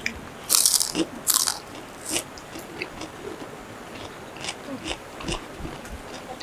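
Two people biting and chewing crunchy food: two loud crunches in the first second and a half, then softer crunches and small clicks as the chewing goes on.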